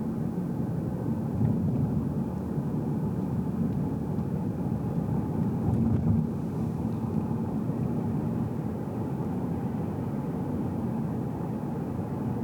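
Steady road and engine noise heard from inside a moving car's cabin: a low, even rumble of tyres and engine with a faint hum of engine tones over it.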